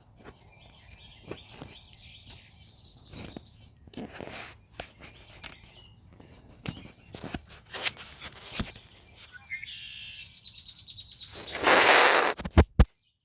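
Red-winged blackbirds calling, with a trilled song about ten seconds in, over scattered clicks. Near the end a loud burst of rustling noise and two sharp knocks, after which the sound stops.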